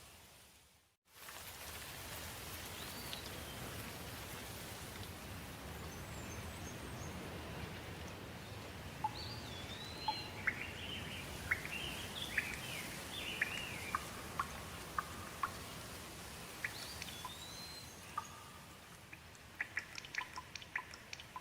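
Steady rain falling, with birds chirping several times through the middle. The sound cuts out briefly about a second in, and near the end a quick run of close, sharp drips comes in.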